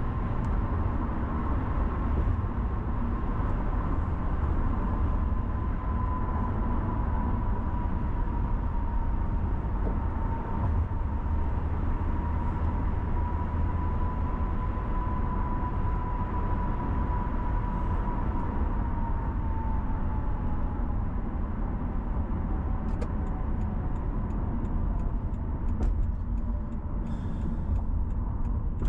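A car driving, with steady low road rumble and tyre noise and a faint steady whine that sinks slightly in pitch about two-thirds of the way through. A few light ticks come near the end.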